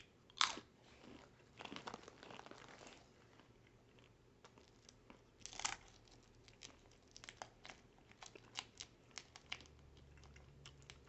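In-shell roasted peanuts being cracked open and chewed. A sharp crack comes about half a second in and another near the middle, with a crinkly rustle between them and a run of small crunches in the second half.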